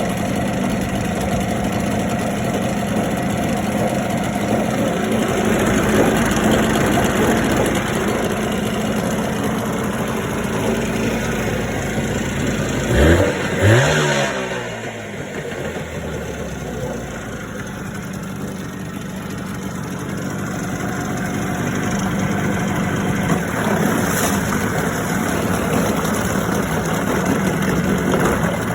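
Mariner 25 hp two-stroke outboard motor running, revved up quickly twice about halfway through, then dropping to a quieter, lower speed that slowly picks up again.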